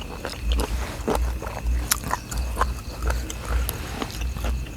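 Close-up chewing and crunching of seafood papaya salad (squid and shrimp), with wet crunches, clicks and a steady chewing rhythm.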